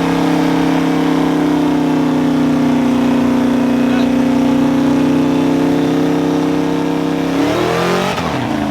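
Truck air horn sounding one long, loud chord of several notes, steady for about seven seconds, then sagging down in pitch near the end as it dies away.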